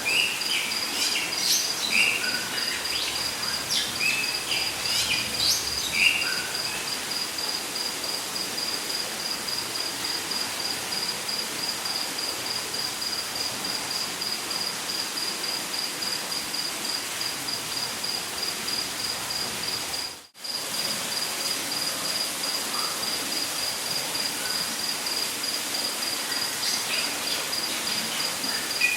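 Rainforest ambience: an insect keeps up an even, fast-pulsing high trill over a steady hiss of falling water, with birds chirping and calling during the first few seconds. About two-thirds of the way through, the whole sound cuts out for an instant.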